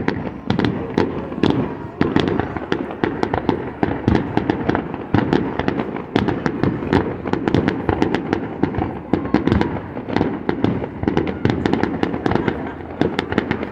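Display fireworks going off in quick succession: a continuous barrage of bangs and crackles, several reports a second with no pause.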